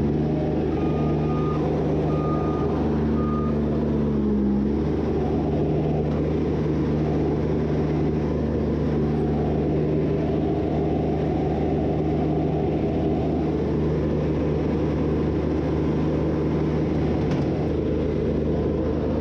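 ASV RT25 compact loader's small turbo diesel engine running steadily while working. A backup alarm gives three short beeps in the first few seconds as the machine reverses.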